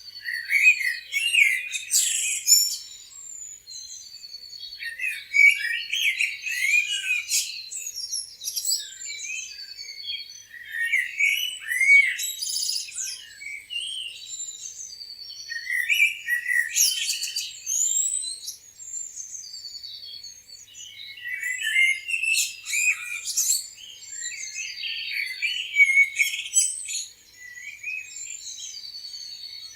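A chorus of small birds chirping and twittering, many short overlapping calls and whistles, swelling into busy clusters every few seconds with thinner calling in between.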